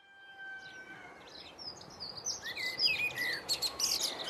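Birdsong fading in: several small birds chirping and warbling with quick whistled notes, growing louder. At the start a faint steady held tone fades out within about a second and a half.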